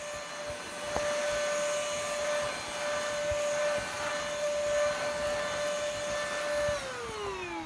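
Budget cordless stick vacuum cleaner running, a steady high motor whine over a rush of air. Near the end the whine falls smoothly in pitch as the motor winds down.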